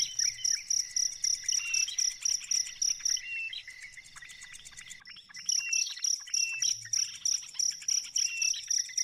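Insect trilling in even high chirps, about five a second, mixed with short bird chirps. The trilling stops for about two seconds midway, then starts again.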